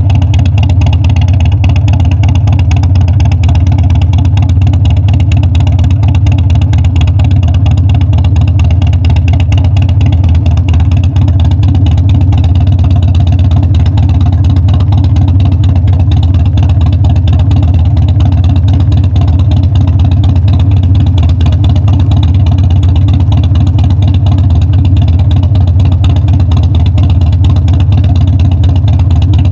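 Harley-Davidson Dyna's air-cooled V-twin engine running steadily at a constant pace.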